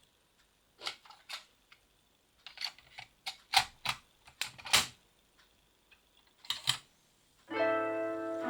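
Sharp mechanical clicks and clacks from a cassette deck's buttons and tape transport being worked, about a dozen irregular clicks, then music begins near the end.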